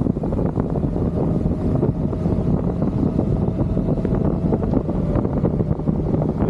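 Motorcycle riding at road speed: steady engine and road noise under heavy wind buffeting on the microphone.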